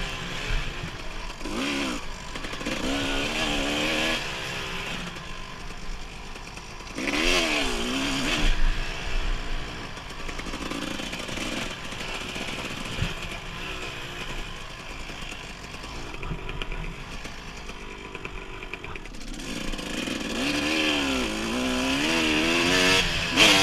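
Dirt bike engine running along a trail, revving up and dropping back as the throttle opens and closes. It is louder a couple of seconds in, again around seven seconds and near the end, and quieter in between.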